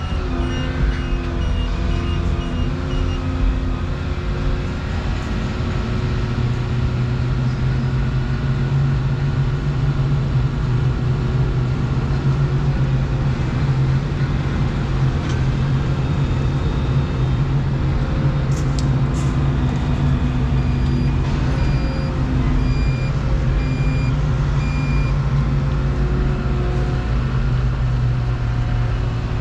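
Volvo 235EL excavator's diesel engine running steadily while it works its hydraulics, settling into a higher, steady note from about six seconds in. A faint warning beep repeats about once a second for the first few seconds and again near the end.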